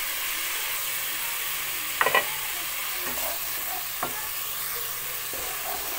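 Onion paste and freshly added ginger-garlic paste sizzling steadily in hot oil in a non-stick pan while being stirred with a wooden spatula, with two brief spatula strokes about two and four seconds in. This is the masala frying stage, cooked until it turns brown.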